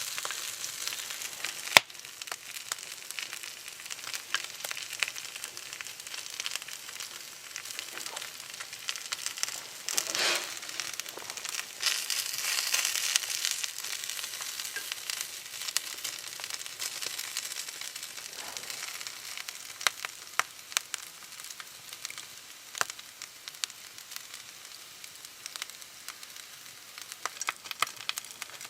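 Bamboo burning down to charcoal, hissing steadily with many small crackles and sharp pops, one loud pop about two seconds in, and the hiss swelling louder around the middle.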